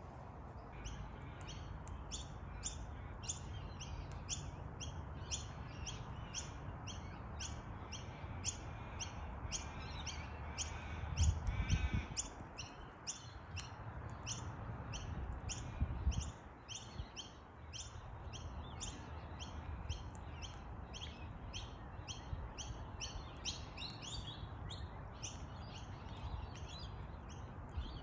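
A small bird chirping over and over in a steady rhythm, about two short high chirps a second, over a low rumble that swells briefly twice, near the middle.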